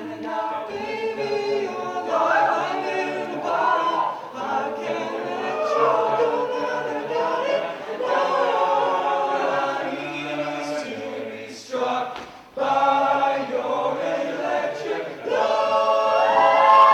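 Student a cappella group singing in layered vocal harmony with no instruments. The voices drop out briefly about twelve seconds in, then swell louder near the end.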